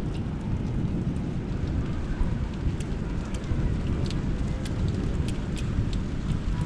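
Thunderstorm rain: a steady, dense low rumble with scattered sharp raindrop ticks close to the microphone.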